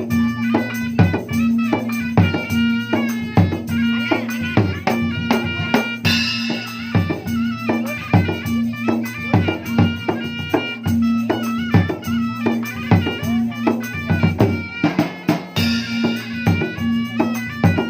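Dangdut music driven by a gendang (kendang) hand-drum rhythm, with a melody line over a held bass note.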